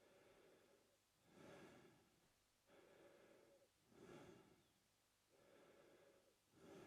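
A man breathing slowly and evenly through his mouth, faint. In and out breaths alternate, about one full breath every two and a half seconds.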